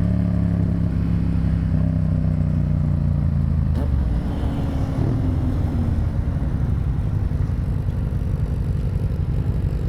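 Yamaha FZ-07's parallel-twin engine running under the rider: a steady note for about four seconds, then the note falls away to a rougher, uneven low sound.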